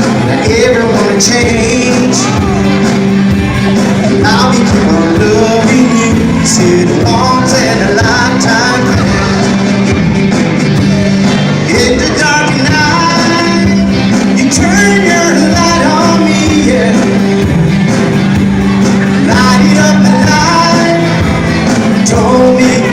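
A live band playing a song: a vocal or melodic line over a sustained bass and a steady drum beat.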